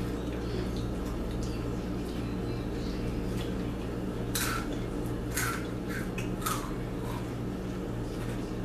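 Crunchy rolled tortilla chips (spicy Takis) being bitten and chewed, with a handful of sharp crunches about halfway through, over a steady low hum.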